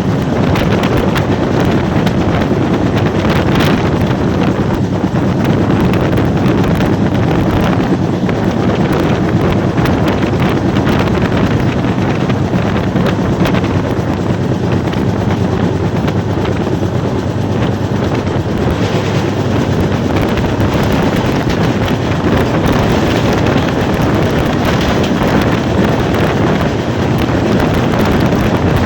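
Steady, loud rushing noise of a fast-moving train, with wind buffeting the microphone and faint scattered ticks over the rumble.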